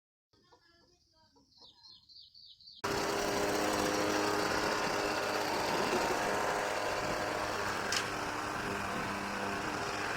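Faint repeated chirps, then about three seconds in a loud, steady motor noise cuts in abruptly and keeps running.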